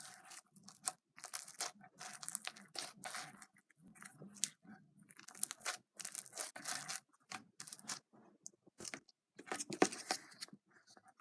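Slime being squished and stretched by hand: irregular sticky crackles and pops, coming in quick clusters, loudest near the end.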